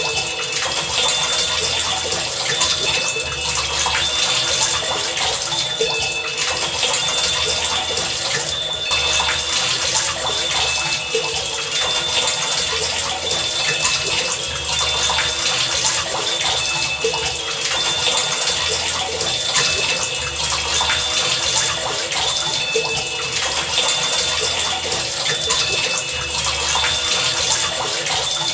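Heavy rain pouring steadily, a dense hiss, with short low hums that come and go every second or two beneath it.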